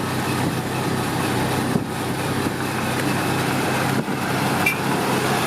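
A motor vehicle engine running steadily amid road traffic.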